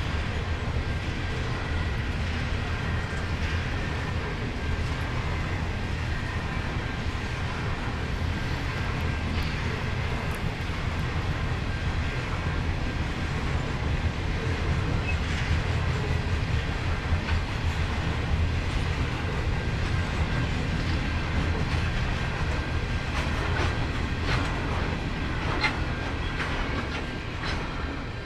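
Diesel-hauled freight train rolling past as it departs a crossing loop, with a steady low rumble and wheels clicking over the rails. The clicks come more often in the last few seconds.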